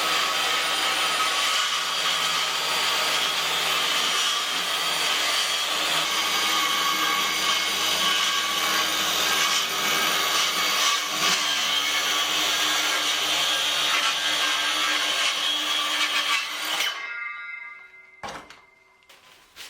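Circular saw running and cutting through a calcium silicate board, a steady loud whine with a grinding cutting noise. It switches off about 17 seconds in and the blade winds down.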